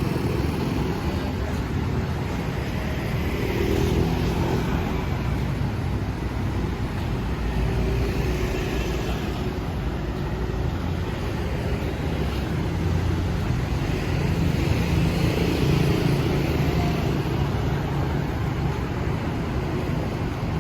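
Busy city street traffic: motorbike and car engines passing in a steady stream over a continuous road hum, swelling now and then as vehicles pass close.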